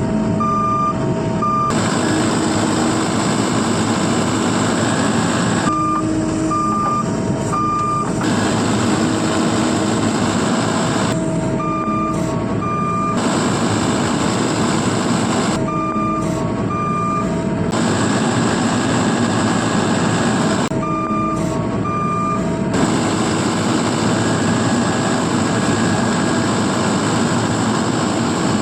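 A vehicle reversing alarm beeping in short repeated tones over steady heavy engine noise. The beeps come in bursts about every five seconds.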